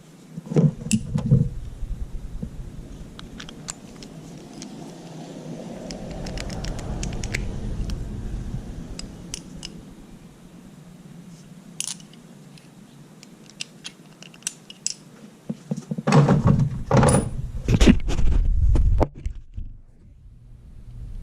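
Metal clinks, clicks and knocks of tools and parts being handled, with scattered ticks and a louder run of knocking and scraping near the end.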